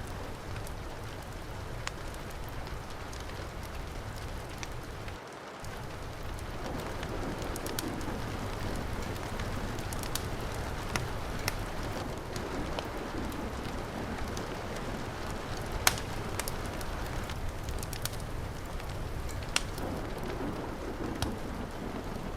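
Heavy rain falling steadily, mixed with a wood fire crackling, with a few sharp pops scattered through it, the loudest about 16 seconds in.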